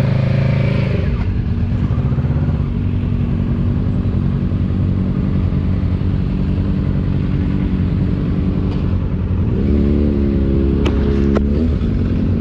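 Motorcycle engine running at a steady road speed under a haze of road and wind noise. Its pitch climbs about ten seconds in as it accelerates, then settles, with two sharp clicks near the end.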